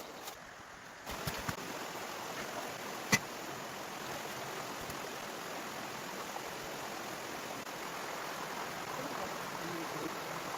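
Steady rushing noise of running water, starting about a second in, with a few light knocks and one sharp click about three seconds in.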